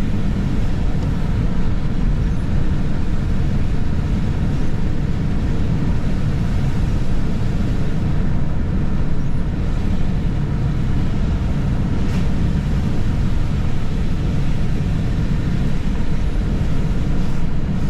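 Steady road noise of a car driving, heard from inside the cabin: an even low rumble of tyres and engine.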